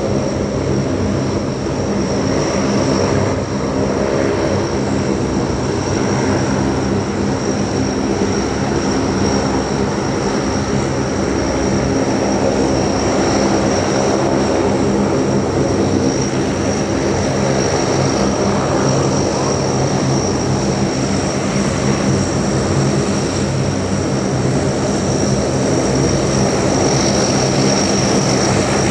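NOAA WP-3D Orion's four Allison T56 turboprop engines running steadily, a propeller drone with a steady high turbine whine above it.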